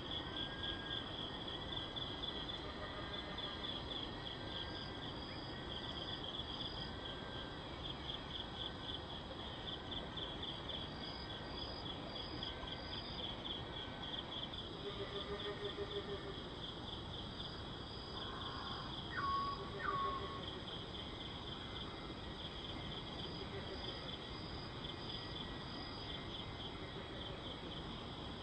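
Crickets chirping steadily in a rapid, high, pulsing trill, with other insects or frogs calling in a slower repeated pattern underneath. Two short, sharper sounds stand out about two-thirds of the way through.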